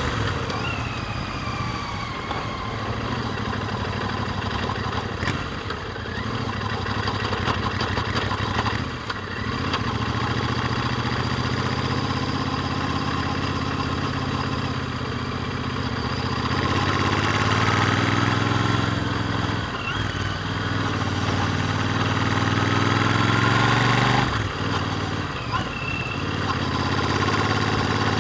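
Royal Enfield Interceptor 650's parallel-twin engine running through its stock exhausts while riding. The engine note climbs as the bike accelerates in the second half, and dips briefly a few times as the throttle is closed.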